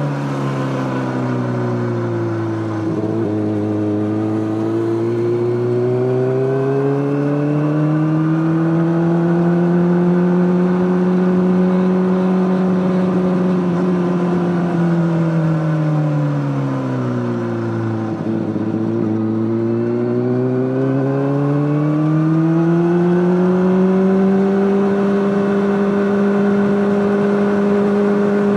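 Honda CBR600RR inline-four engine running through an Akrapovic exhaust, its note rising and falling smoothly. The engine speed sinks twice to a low note, about three seconds in and again a little past halfway. Each time it climbs back up and holds a higher, steady pitch.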